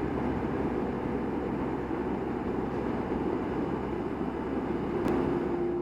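Motorcycle riding at road speed: the engine runs steadily under a constant rush of wind on the helmet-mounted microphone, with a single brief click about five seconds in.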